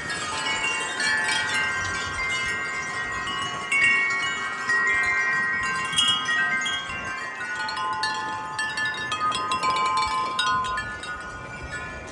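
Wind chimes clanging in gusty wind, many tubes struck over and over so their ringing tones overlap, easing off a little near the end.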